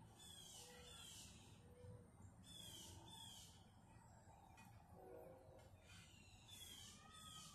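Faint northern cardinal song: three phrases of quick downslurred whistles, near the start, about two and a half seconds in, and near the end, over a low steady rumble.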